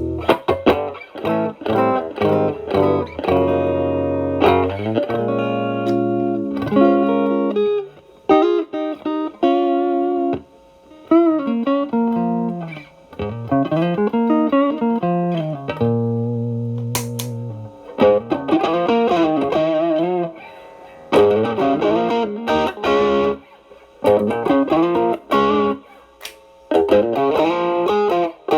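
Electric guitar (Stratocaster) played through an Xotic BB Plus preamp with Ch.A stacked as a gain boost into Ch.B's drive, into a Marshall Valvestate amp, giving an overdriven lead tone. Improvised blues-style phrases with string bends, separated by short pauses.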